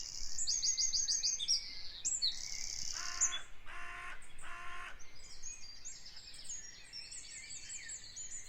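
Small birds chirping and singing in fast, high trills, with three louder, lower calls in a row near the middle.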